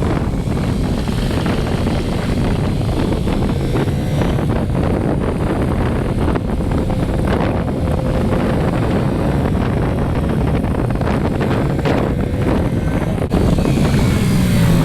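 Wind rushing over the microphone of a moving motorcycle, with the engine running steadily underneath. About 13 seconds in, the sound steps up slightly louder.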